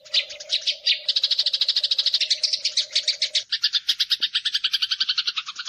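Eurasian tree sparrows giving the fast, unbroken chattering chirps of sparrows fighting, about ten chirps a second. A low steady hum runs under the first part and stops about three and a half seconds in.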